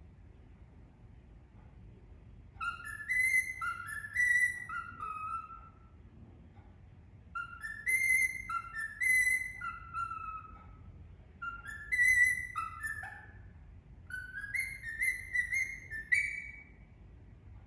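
Indian ringneck parakeet whistling a tune: four phrases of clear notes stepping up and down, each a second or two long, with short pauses between them.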